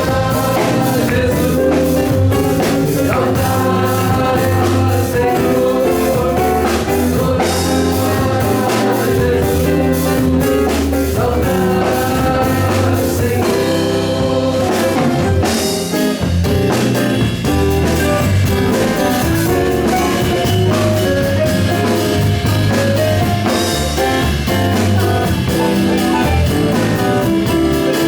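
Live praise band of keyboard, electric bass and drum kit playing an instrumental passage of a gospel song, with a steady drum beat and a bass line under the keyboard.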